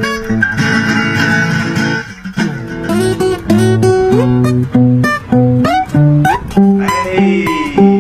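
Solo acoustic guitar played fingerstyle: plucked melody notes over a moving bass line in a steady rhythm. A blurred, ringing wash of notes comes in about half a second in and again near the end.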